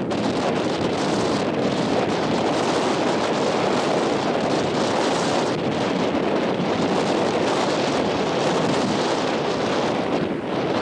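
Strong coastal wind buffeting the microphone: a loud, steady rushing roar that eases briefly near the end.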